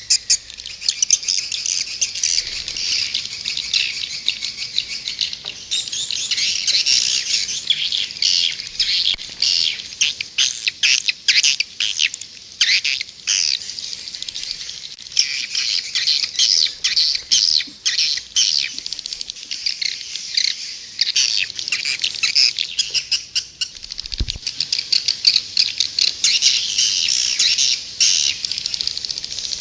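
Swiftlet lure call: a dense, unbroken chatter of rapid high-pitched chirps and twitters from many swiftlets. This is the outside-house lure recording used to attract swiftlets to a nesting house.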